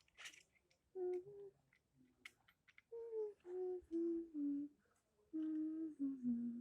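A person humming a short tune in three phrases of held notes, each phrase stepping downward in pitch, with a few faint clicks between the phrases.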